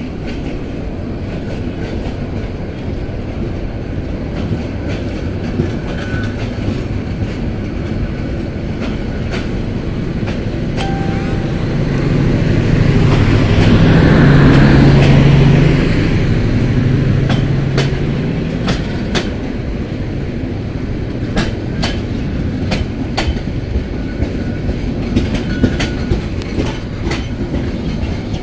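Train moving through the station: a steady rumble of wheels on rails with irregular clicks as the wheels pass over rail joints. The sound swells for a few seconds about halfway through, with a low steady hum, then eases back.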